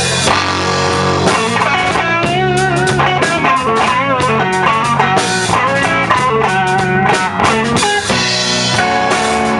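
Blues band playing an instrumental passage: an electric guitar lead with bent, wavering notes over bass and drums.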